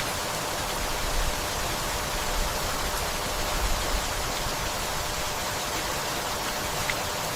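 Steady rainfall, an even unbroken hiss of falling rain.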